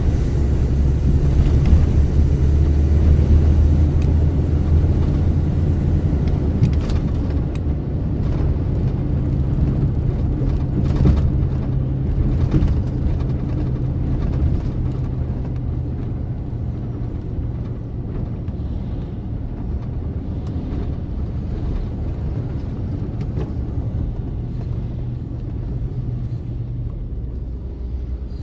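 Truck engine running while driving, a steady low drone with a few brief knocks, easing off gradually as it goes.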